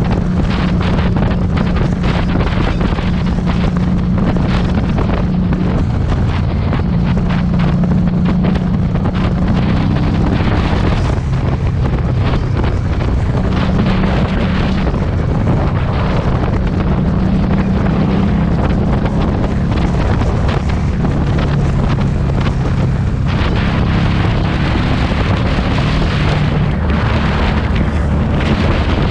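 Harley-Davidson Street 500's V-twin engine running through a TAB Performance exhaust under way, its note stepping up and down with throttle and gear changes. Heavy wind buffeting on the camera's built-in microphone largely masks the engine.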